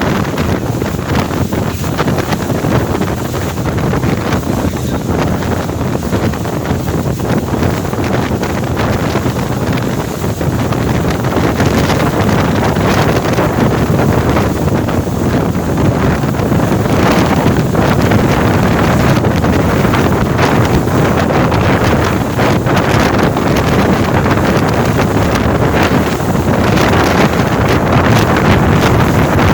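Wind buffeting the microphone over the steady, loud noise of a passenger boat under way on open water.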